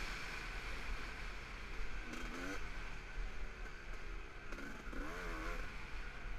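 Dirt bike engine running muffled under way, its note rising and falling as the throttle opens about two seconds in and again around five seconds. Steady wind rumble on the camera runs under it.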